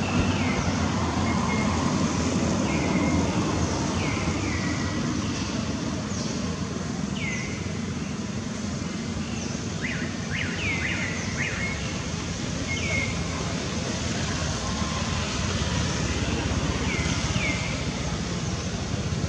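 A bird's short falling calls, repeated every second or two, with a quick run of several calls about ten seconds in, over a steady low background rumble.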